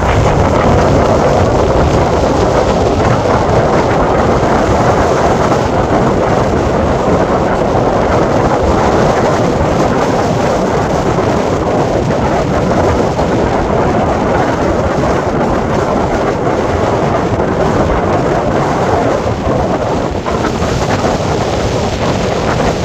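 Strong storm wind buffeting the microphone, a loud, steady rush of noise, with rough sea mixed in.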